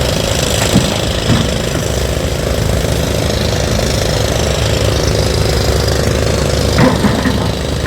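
Diesel engine of a heavy earth-moving machine running steadily, with a fast low chugging and a few short knocks, one of them near the end.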